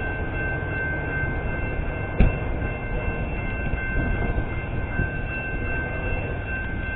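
Metra commuter train with two locomotives rumbling as it pulls away, while the grade-crossing warning bell rings steadily and then stops near the end as the crossing clears. There is one sharp clank about two seconds in.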